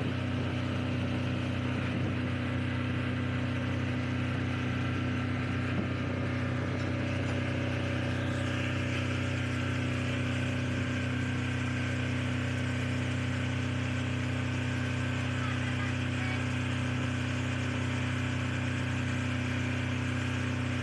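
Shark Pro 12kVA air-cooled diesel generator running at a steady speed, a constant low engine drone.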